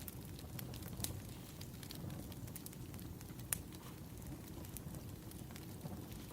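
Wood fire burning, a steady low rumble with irregular crackles and sharp pops, the loudest pops about a second in and halfway through.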